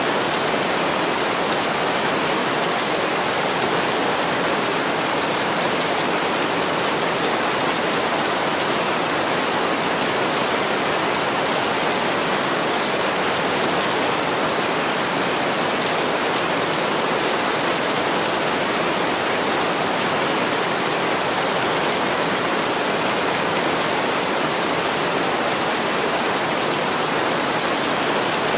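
Heavy rain falling steadily on a window, a dense, even hiss with no single drops or other sounds standing out.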